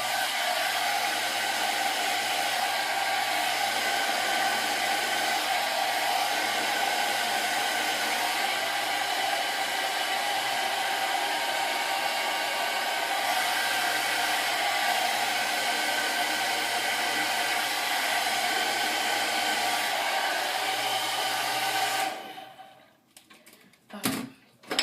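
Handheld hair dryer running steadily with a whining hum over rushing air while a section of twisted hair is blown straight, then switched off suddenly about 22 seconds in, followed by a couple of light knocks.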